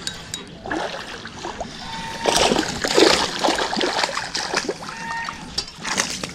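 Splashing in the water from a hooked largemouth bass thrashing as it is reeled in, in irregular bursts, loudest about two to three seconds in.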